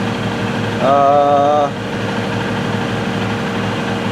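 Steady low machine hum with a constant tone, and a short held hummed 'mmm' from a man's voice about a second in.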